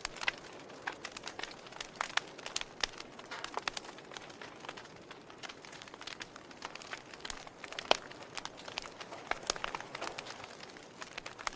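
Fire crackling: irregular sharp pops and snaps over a soft steady hiss, with one louder pop about eight seconds in.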